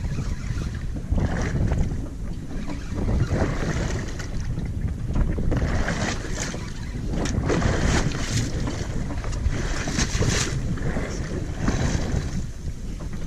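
Wind buffeting the microphone on a boat at sea, with an uneven rumble and irregular splashes of water against the hull.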